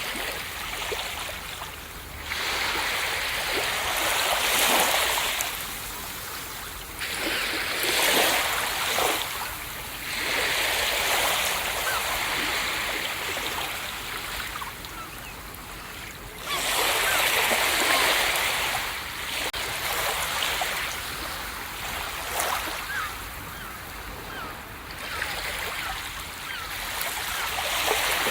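Ocean waves breaking on a beach: the surf swells into a hiss and washes back every few seconds, the biggest wave breaking about sixteen seconds in.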